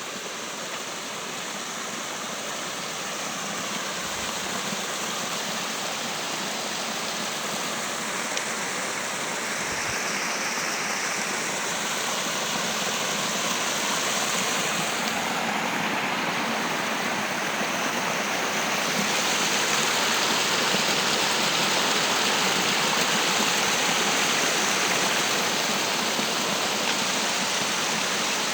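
Steady rush of flowing water, like a stream or small waterfall, growing gradually louder over the first two-thirds and then holding steady.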